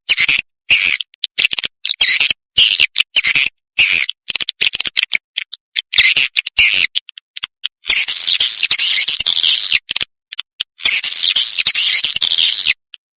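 Edible-nest swiftlet calls: rapid high chirps and twitters in short bursts with dead-silent gaps between them, turning into dense continuous chattering twice in the second half. This is an edited swiftlet lure-call track of the kind played in swiftlet houses to draw birds in to nest.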